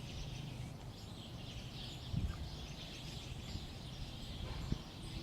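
Many small songbirds singing and chirping at once, a dense chorus of short overlapping chirps and trills coming from several directions, over a steady low rumble.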